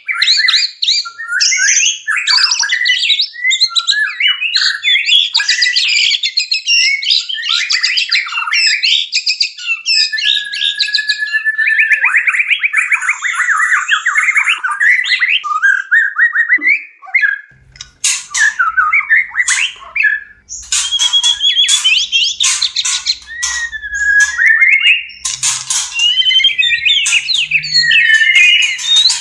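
White-rumped shama (murai batu) singing without a break: rapid, varied phrases of whistles, trills and harsh chatters. The song is in breeding condition (birahi). About 17 seconds in, the song drops away briefly and then resumes with a faint low hum underneath.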